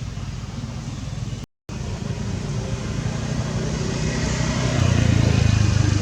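A motor vehicle's engine running, growing louder over the last two seconds as if approaching. The sound cuts out completely for a moment about a second and a half in.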